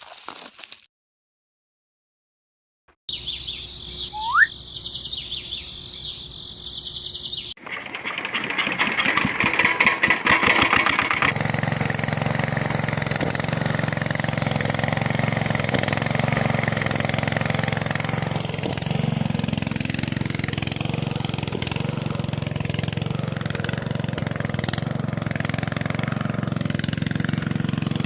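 A small homemade engine, built to drive a flour mill, running steadily from about a third of the way in. Before it come a short rising whistle and a few seconds of fast clattering.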